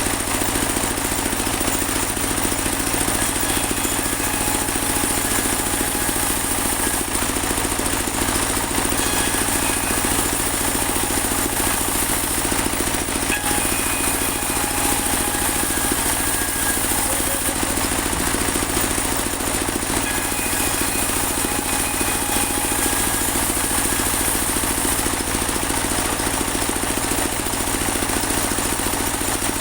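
Portable band sawmill running steadily, its engine beating rapidly and evenly with a constant mechanical din.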